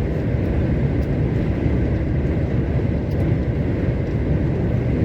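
Heavy truck running at road speed, a steady drone of engine and tyre noise as heard inside the cab.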